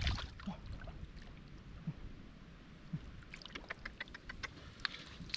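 Faint sloshing and small splashes of shallow muddy water, with a scatter of light clicks and ticks from about three to five seconds in.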